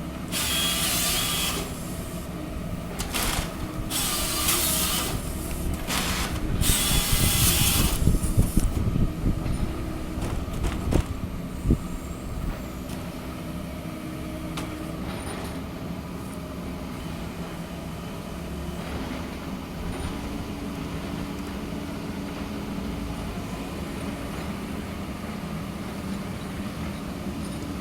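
Mini-excavator forestry harvester at work: its diesel engine runs steadily while the hydraulic head gives four short bursts of loud rushing noise in the first eight seconds, followed by a few sharp knocks, then settles back to steady running.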